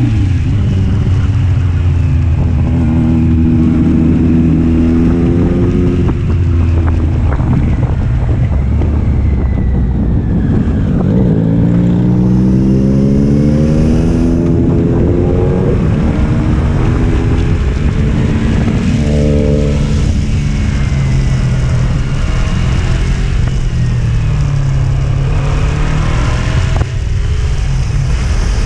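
Triumph Street Triple's inline-three engine under way, its revs climbing and dropping repeatedly as the bike accelerates and changes gear.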